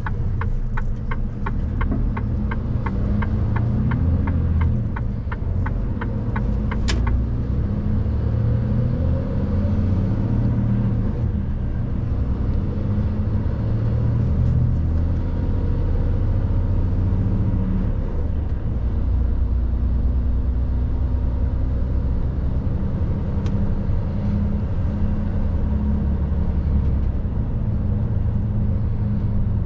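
Mercedes truck's diesel engine running under way, heard from the cab as a steady low rumble, its note rising and falling with the engine speed. For the first seven seconds or so a regular ticking runs at a little over two ticks a second, then stops with a sharper click, like a turn indicator being cancelled.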